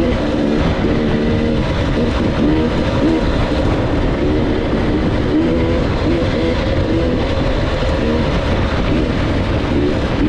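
Dirt bike engine running hard while riding, its pitch rising and falling over and over as the throttle is worked.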